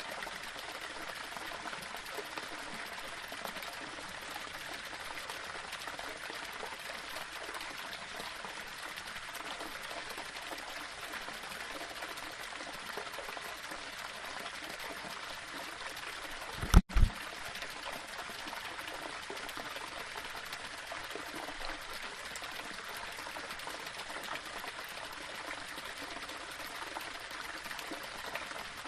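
Small waterfall: water running and splashing over rocks in a steady, even rush. About two thirds of the way through, a brief low thump cuts in for under half a second.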